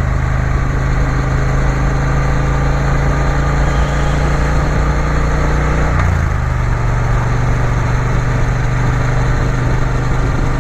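Triumph Bonneville T120 parallel-twin engine running steadily under way, with a steady rush of wind noise. The engine note changes step about six seconds in.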